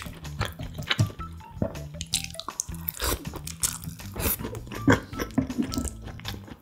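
Close-miked eating sounds: wet chewing, smacking and short clicks as slices of fried canned ham are picked up with metal chopsticks and chewed. Soft background music plays underneath.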